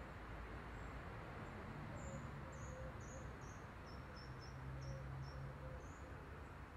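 Faint garden ambience with a small bird giving a series of about a dozen short, high, slightly falling chirps, starting about a second and a half in; a low hum runs underneath, strongest in the second half.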